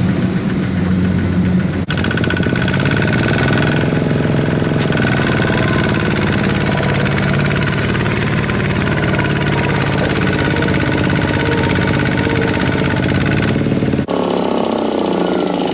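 Kubota mini tractor engine running steadily, with its pitch wavering a little a few seconds in; the sound breaks off abruptly twice.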